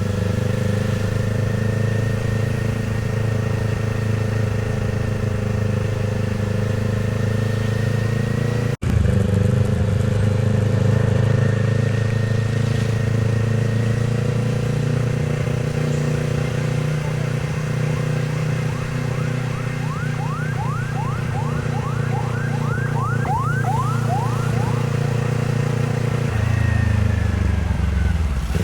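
Kawasaki Z500's parallel-twin engine running steadily under way, its note held and rising slightly, then dropping as the bike slows near the end. A quick run of short falling tones is heard in the second half.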